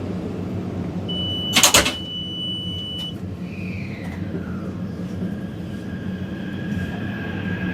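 Taipei Metro train car with a steady low rumble. The sliding doors shut with a short loud thud about one and a half seconds in, under a brief high tone. Electric whines then glide down and settle into steady tones as the train starts off.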